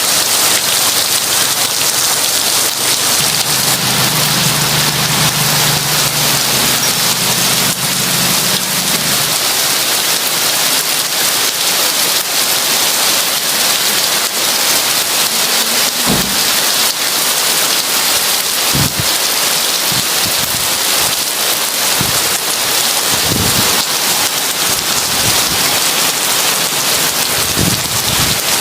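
Heavy rain falling steadily, a dense hiss of drops on a surface. A low rumble of thunder rolls from about four to nine seconds in, and several short low thumps come in the second half.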